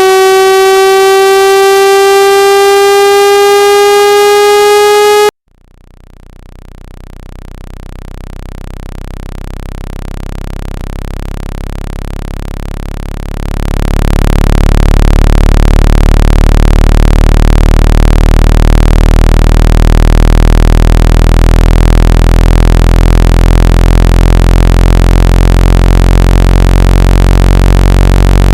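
Synthesized water-ejection tones for clearing water from a phone speaker. A steady buzzy tone, slowly rising in pitch, cuts off suddenly about five seconds in. A low, buzzy tone then fades in, grows louder about thirteen seconds in, and holds steady.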